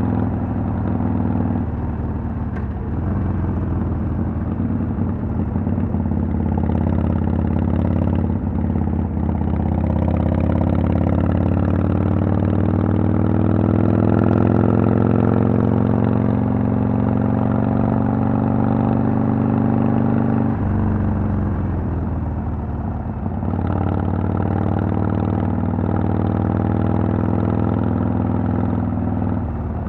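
Harley-Davidson Sportster 883's air-cooled V-twin running through Vance & Hines Twin Slash pipes. Its pitch climbs slowly for about ten seconds, drops sharply about twenty seconds in, then holds steady.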